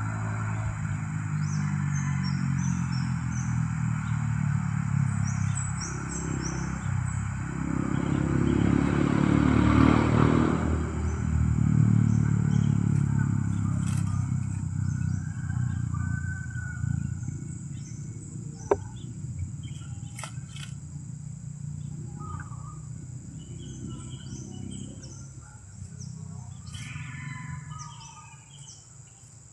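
A motor vehicle's engine running steadily, loudest around ten seconds in and then fading away, with small birds chirping throughout.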